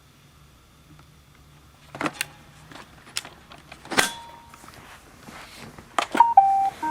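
iRobot Roomba robot vacuum at work: a faint hum, then a series of sharp knocks and clicks, followed near the end by a few short electronic beeps.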